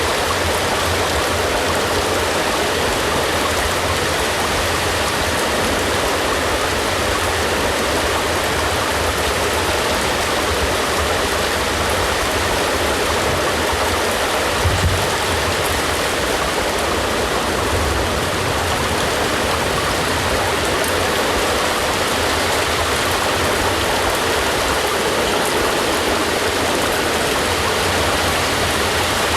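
Steady rain falling, an even unbroken hiss, with one brief low thud about halfway through.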